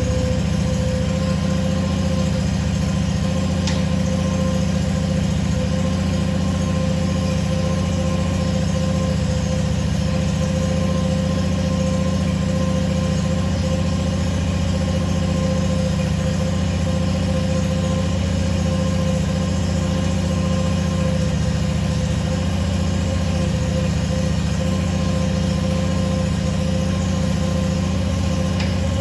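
Ventrac compact tractor's engine idling steadily, running so that the Tough Cut deck's lift mechanism can be released and the deck raised.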